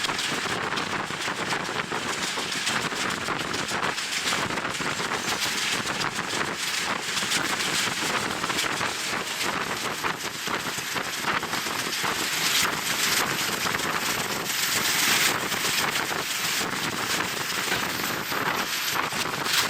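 Wind buffeting the microphone at a moving train's open window, over the steady running noise of the train.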